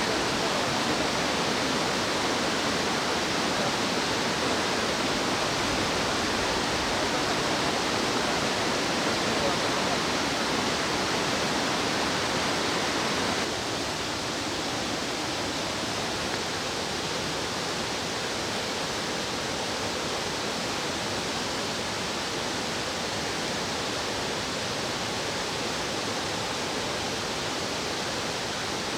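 Rushing water of a fast-flowing stream, a steady even rush; about halfway through it drops slightly in level and carries on.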